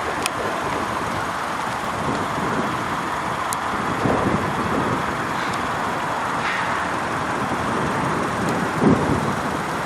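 Steady road-traffic noise, with low rumbles about four and nine seconds in.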